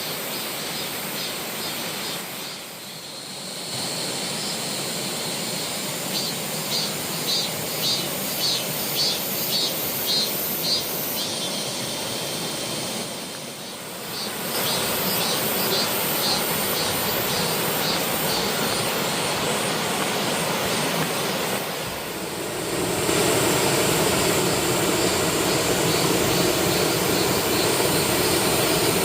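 Steady rush of falling water from a mountain waterfall. It changes abruptly between takes and is loudest in the last few seconds. For a few seconds in the first half, a high pulse repeats about twice a second over it.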